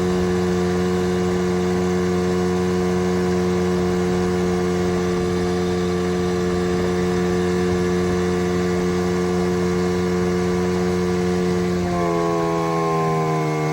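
1995 Evinrude 15 hp two-cylinder two-stroke outboard motor running steadily at a constant throttle. About twelve seconds in it is throttled back and its pitch falls.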